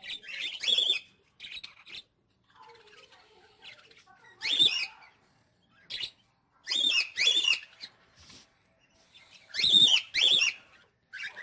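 Small caged parrots calling: loud chirping calls that rise and fall in pitch, mostly in quick pairs, four times, with fainter chatter between them.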